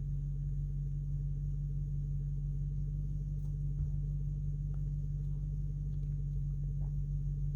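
A vehicle engine running steadily at a constant low drone, with no change in speed.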